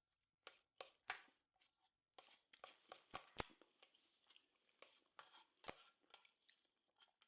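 Near silence with faint, scattered clicks and crackles: small handling and eating noises during a meal of military rations.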